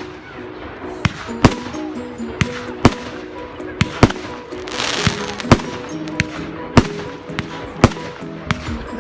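Fireworks going off in a display: about ten sharp bangs at irregular intervals, with a hissing burst about five seconds in. Music plays underneath.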